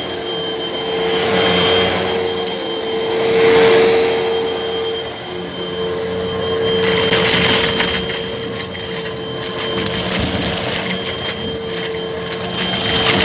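Hoover vacuum cleaner running with a steady motor whine while sucking up dry crunchy debris. Dense crackling and rattling from the debris starts about seven seconds in.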